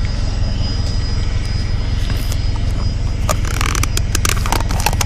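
Turbine aircraft engine running steadily: a constant low rumble with a thin, steady high whine. A quick series of sharp clicks and knocks comes about three seconds in.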